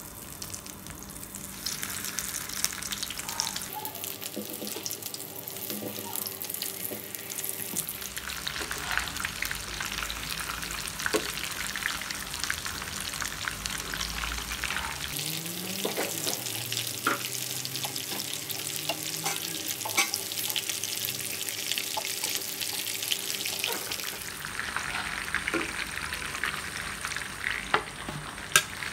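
Breaded chicken nuggets shallow-frying in hot oil in a pan: a steady sizzling and crackling, with a few sharp clicks as they are turned.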